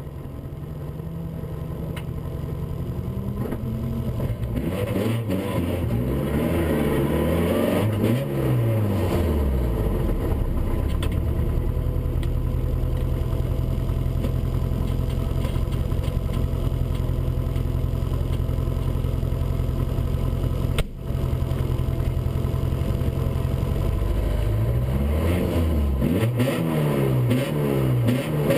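Škoda Felicia Kit Car rally engine heard from inside the cabin, fading in over the first few seconds, then revving up and dropping back several times as it accelerates through the gears. It then holds steady high revs for a long stretch, with a momentary break about two-thirds of the way through, before more rising and falling revs through gear changes near the end.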